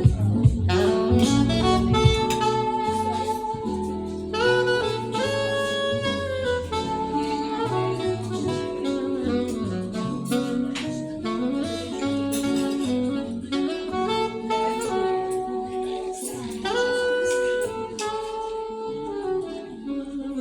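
Saxophone playing a light blues melody in long held and gliding notes over a low instrumental backing.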